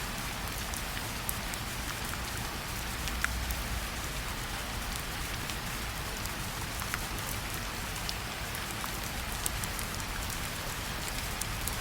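Steady rainfall: an even hiss with scattered sharper drop ticks.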